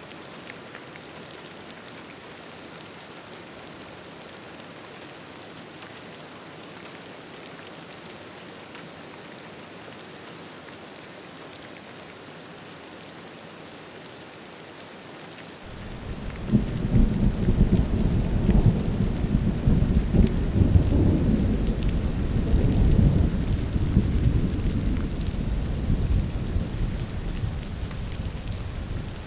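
Rain falling steadily, then a little over halfway through a long, loud rumble of thunder rolls in suddenly and slowly fades.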